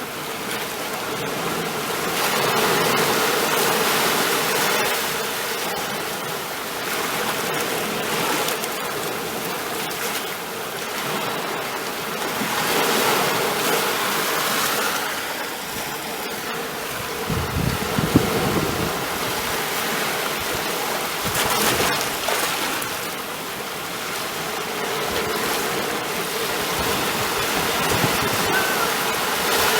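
Ocean surf washing ashore, a steady rush of water that swells and ebbs every few seconds as waves break, with a deeper surge a little past halfway.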